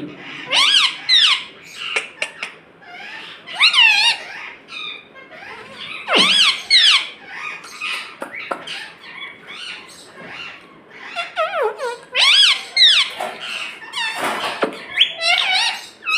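Pet parrot making short, high-pitched squeaky calls that bend up and down in pitch, in clusters every couple of seconds.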